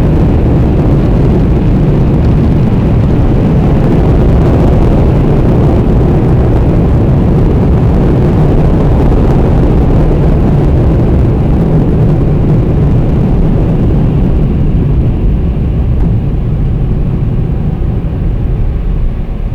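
Car wash dryer blowers blasting air over the car in a loud, steady rush, easing off a little near the end as the car leaves the dryers.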